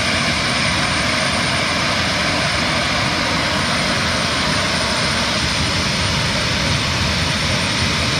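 Jet engine of a jet-powered drag-racing funny car running loud and steady, an even rushing noise that holds without rising or falling.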